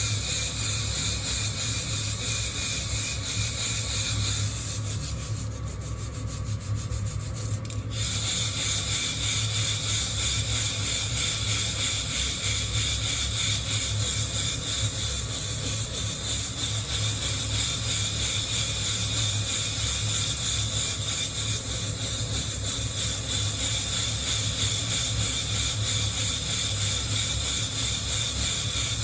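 Coffee beans rustling and rubbing against the wire mesh of a hand-held roasting net as it is shaken. The sound briefly thins out about five seconds in, then carries on steadily.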